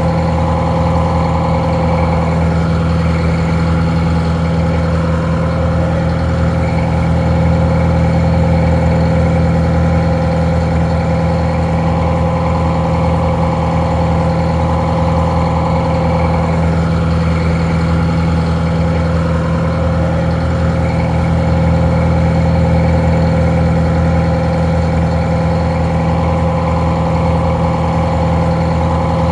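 Detroit Diesel 4-71 two-stroke diesel engine idling steadily, slightly muffled. It is the engine that drives a barge's winch.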